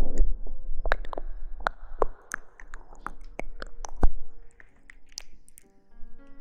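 Close-miked ASMR crackling and clicking: irregular crisp taps and crinkles over soft rustling, with one heavier low thump about four seconds in.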